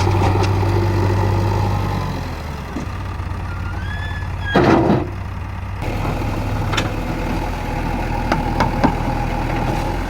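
Diesel engine of a JCB 3DX backhoe loader running at a steady low speed, louder for the first two seconds and then settling lower. About halfway through there is a short loud burst of noise, and near the end a few sharp knocks.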